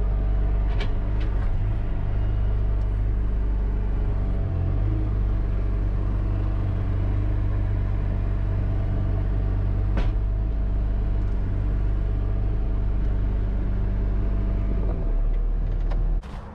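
Bobcat T650 skid-steer's diesel engine idling with a steady low rumble, dropping away about sixteen seconds in.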